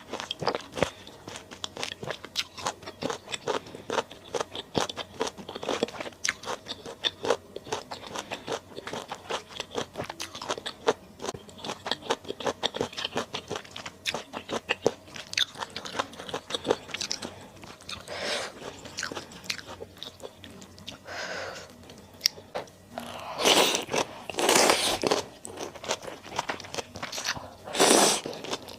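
Close-up eating sounds of a person eating malatang: rapid, crunchy chewing and biting with many small wet clicks. Several longer, louder sounds come in during the last third.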